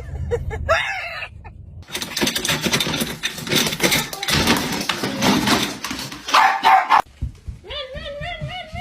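A dog barking amid a noisy scuffle, with a wavering, pitched call near the end.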